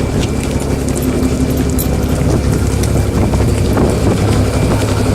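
An engine running steadily at a low hum, with wind buffeting the microphone.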